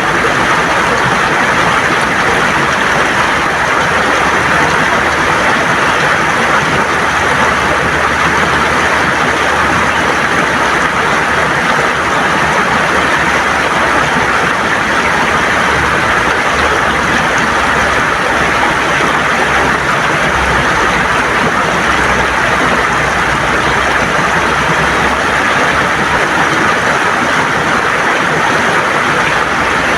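River water gurgling and rushing over stones, a loud, steady flow with no let-up.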